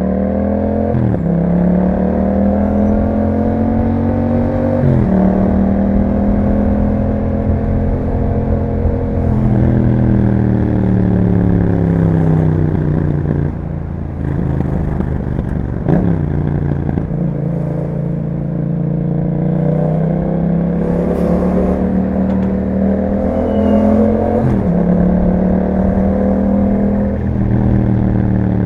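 A 2021 Yamaha MT-07's 689 cc parallel-twin engine running through an Akrapovic exhaust on the move. It rises in pitch as it accelerates, drops sharply at each of several gear changes, and eases off in between.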